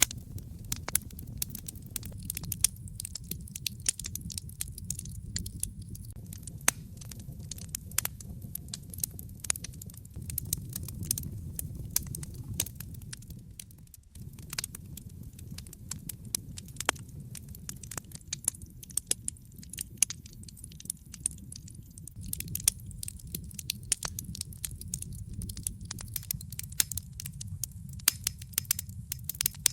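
Wood fire crackling, with sharp irregular snaps and pops over a steady low rumble of the flames; the sound drops away for a moment about halfway through.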